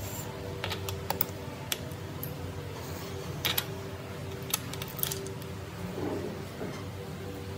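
Scattered light clicks and taps of metal parts being handled during a hydraulic pump rebuild, over a steady low hum.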